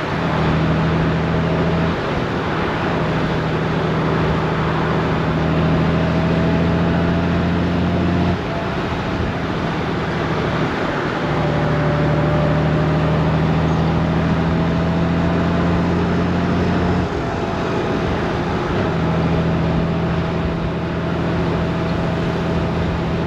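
Honda Gold Wing DCT's flat-six engine running under way over heavy wind and road noise. The engine note breaks off twice, about a third of the way in and again past the middle, for two or three seconds each before it picks up again.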